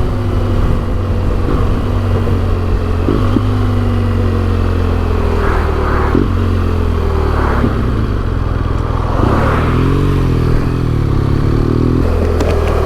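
BMW R1200GS boxer-twin engine through an SC Project exhaust, heard from the rider's mic while riding. The engine note falls steadily over the first few seconds, then swings up and down in pitch with throttle changes near the end.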